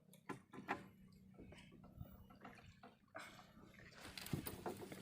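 Small splashes and sloshing water with scattered short knocks and clicks, getting busier about three seconds in.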